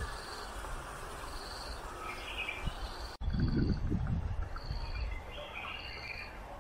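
Birds calling: a short high note repeated about once every second or so, with other scattered chirps over steady outdoor background noise. A brief low rumble comes about three seconds in.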